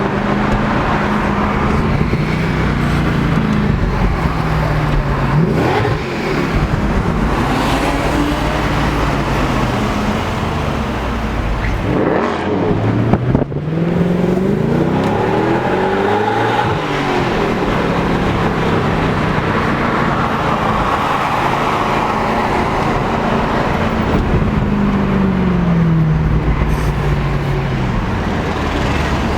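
Mercedes-Benz CLK63 AMG's 6.2-litre V8 accelerating hard, heard from inside the cabin. The engine note climbs and drops again and again through the gear changes, with a brief dip and a quick sharp rise about halfway through.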